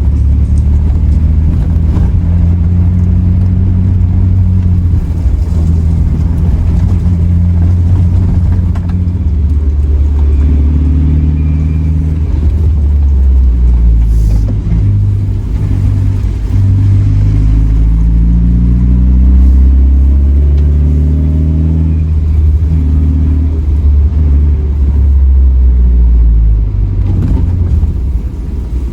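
Suzuki Jimny Sierra JB74's 1.5-litre four-cylinder engine running as the car drives, a steady low rumble whose pitch rises and falls repeatedly as it speeds up and eases off. It gets a little quieter near the end.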